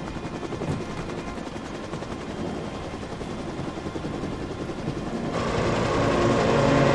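Helicopter rotor blades chopping rapidly and steadily. A dramatic music score comes in about five seconds in and swells.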